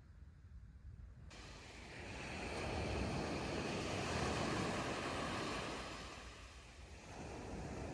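Sea waves breaking and washing ashore. One swell of surf builds about two seconds in, peaks and fades, and the next rises near the end, over a low wind rumble on the microphone.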